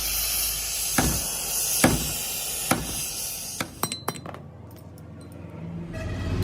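Metal-on-metal clinks in a machine workshop: three sharp strikes about a second apart over a steady background hum, then a quick flurry of lighter clicks, after which the hum drops away.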